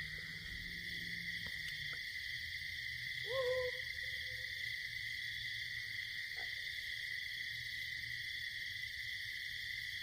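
Steady chorus of night insects with a single owl hoot about three seconds in.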